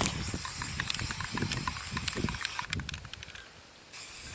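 Irregular light clicks over low thumps and rumbles, which die down about three seconds in.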